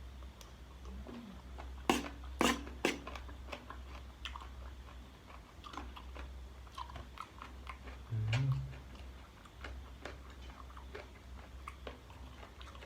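A person chewing and biting chicken feet close to the microphone, with scattered sharp crunching clicks, three louder ones about two to three seconds in. A low steady hum runs underneath.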